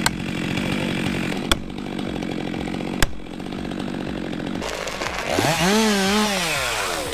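Stihl MS 462 two-stroke chainsaw running at a steady high speed, with sharp clicks about every second and a half. Near the end a pitched engine sound rises, wavers and falls again.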